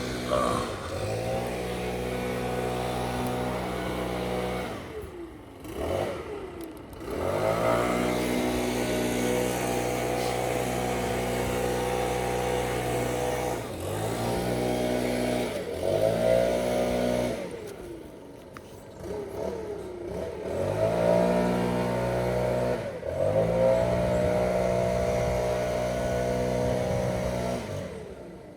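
An engine revved repeatedly: it climbs to a steady high speed, holds there for a few seconds, and drops back, several times over.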